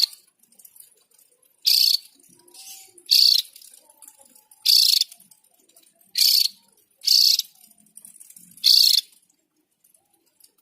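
Javan grey-throated white-eye giving a series of short, harsh, high calls, about six of them, each roughly a third of a second long and spaced a second or so apart.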